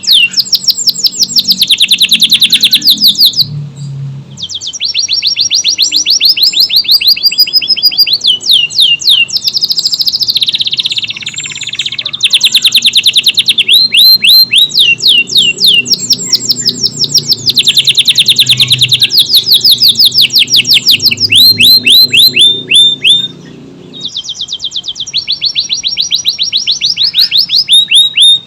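Canary singing in full song: long, fast rolls of rapidly repeated high chirping notes, broken by a few short pauses.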